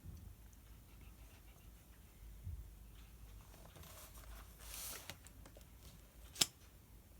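Quiet desk study sounds: a pen writing on paper, a short paper rustle about five seconds in, and a single sharp click a little later, the loudest sound.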